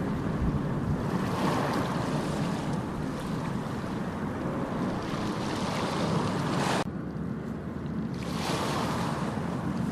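Ocean waves breaking and washing up a beach, swelling every few seconds, with wind on the microphone. The hiss of the surf cuts off abruptly about seven seconds in, then builds again with the next wave.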